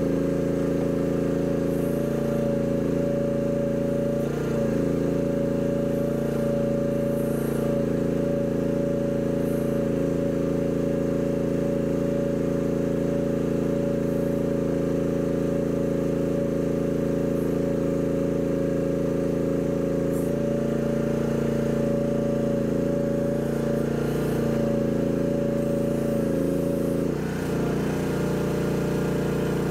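Chinese mini excavator's engine running steadily with a constant high hydraulic whine over it, as the machine works a hydraulic auger.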